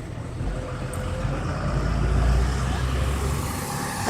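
A motor vehicle passing on the street, its low engine rumble swelling and then fading away.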